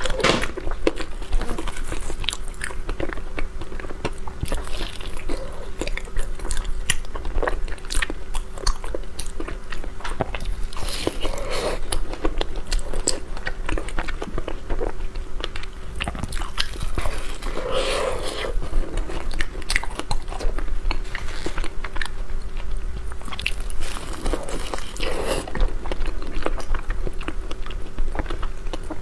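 Close-miked eating: a person biting and chewing soft snow-skin taro pastry with egg yolk filling, with many small irregular wet mouth clicks and smacks.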